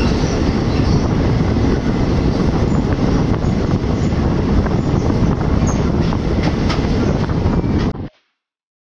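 Passenger train running at speed, heard from an open coach door: a loud, steady rumble and clatter of wheels on the rails. It cuts off abruptly about eight seconds in.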